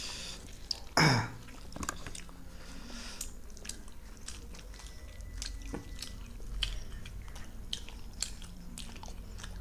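People chewing soft luchi and potato curry, with frequent small wet mouth clicks and smacks. There is a short, loud vocal sound about a second in.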